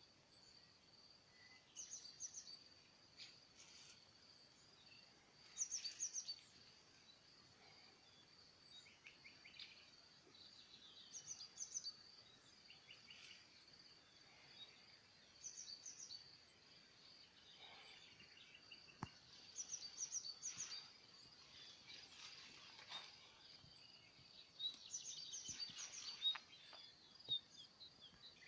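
Faint songbird chirping: quick clusters of high notes recurring every few seconds, over a steady high-pitched insect-like hum.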